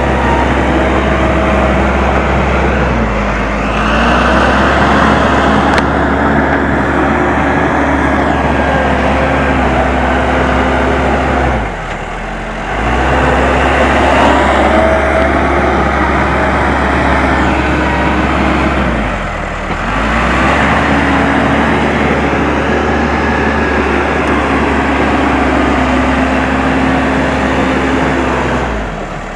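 Case 580M backhoe loader's diesel engine running as the machine works, its pitch and level dipping four times, about every eight seconds, then climbing back as the load comes and goes.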